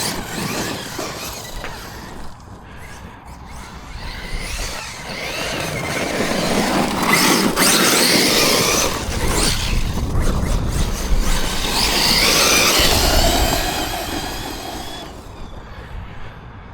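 Electric RC monster truck driving hard over dirt: a motor whine that rises and falls in pitch as it accelerates and eases off, over a steady gritty rush of tyres on the ground. It is loudest about halfway in and again a few seconds before the end, and quieter early on and at the close.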